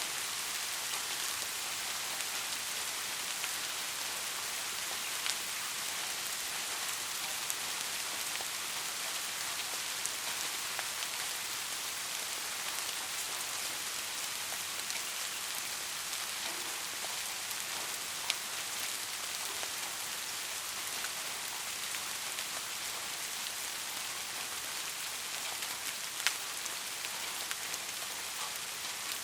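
Steady soft rain falling in an even hiss, with a few individual drops ticking sharply on a surface, the clearest about 26 seconds in.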